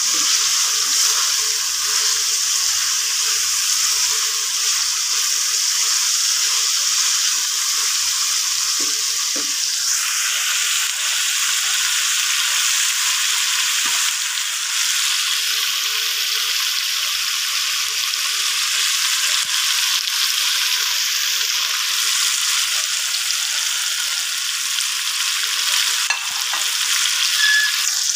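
Chicken pieces in a thick gravy sizzling steadily in a nonstick pan while being stirred with a silicone spatula.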